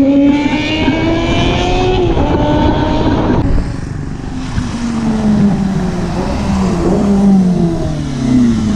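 Motorcycle engine accelerating: its pitch climbs, dips about two seconds in at a gear change, and climbs again. About three and a half seconds in the throttle is rolled off, and the engine note falls lower and wavers.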